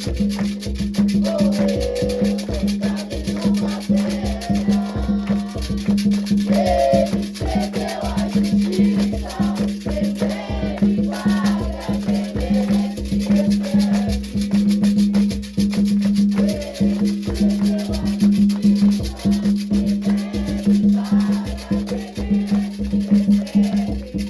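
Afro-Brazilian ceremonial music for Xangô: hand drums beating a steady, fast rhythm, with shaken rattles and voices singing over it.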